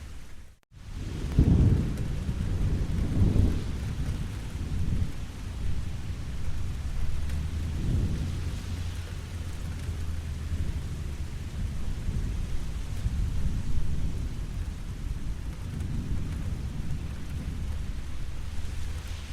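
Steady rain falling, with low rolling thunder rumbling repeatedly, loudest just after the start. The sound drops out for a split second near the beginning.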